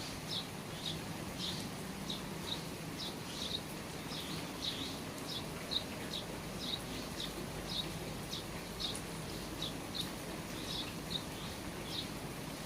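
Steady rain falling under the eaves, with a bird repeating short high chirps about twice a second.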